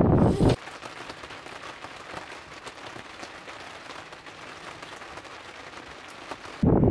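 Rain pattering on a sailboat's deckhouse windows, heard from inside the cabin as a soft hiss full of fine irregular ticks. Wind rumbles loudly on the microphone for the first half second and again near the end.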